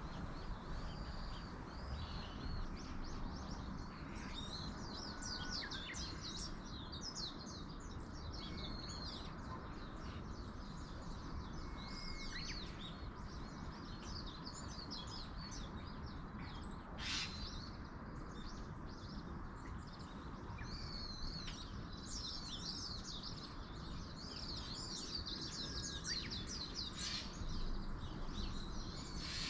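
Several small songbirds chirping and trilling in quick, overlapping calls, over a steady background hiss of outdoor ambience. There is one brief louder sound about halfway through.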